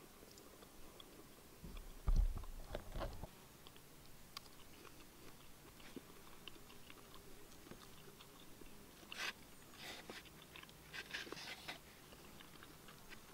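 A person chewing and biting into fire-cooked meat, faint short crunchy bursts that cluster near the end. A dull low thump about two seconds in is the loudest sound.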